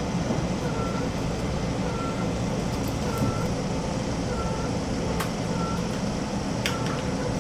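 Keisei 3400 series electric train running, heard from inside the carriage, with a steady low rumble. A short electronic beep repeats about once a second over it, and there are a couple of sharp clicks near the end.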